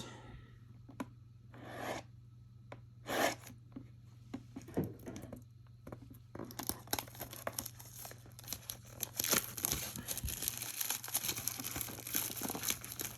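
Plastic shrink wrap on a trading card hobby box being torn open: a few separate rips, then continuous crinkling and tearing of the plastic from about halfway through.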